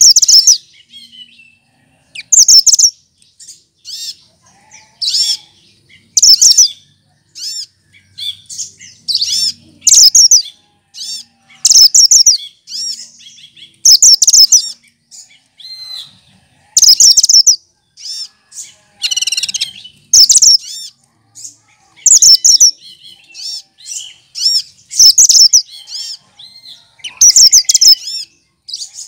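Cucak kinoy, a green songbird that mimics other birds, singing loud, high, rapid chirping phrases that repeat every second or two with short pauses between them.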